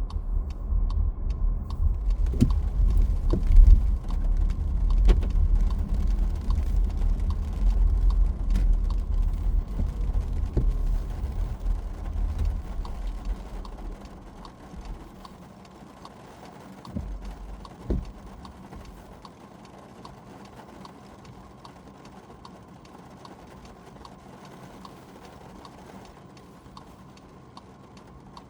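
Car driving in rain: a low road rumble with scattered raindrop taps. The rumble fades away over a few seconds about halfway through as the car slows, with a couple of soft thumps, and then only a quieter steady hiss and light ticking remain.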